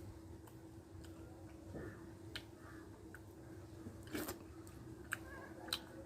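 Eating sounds: half a dozen scattered sharp clicks and smacks of chewing, the loudest about four seconds in, over a steady low hum.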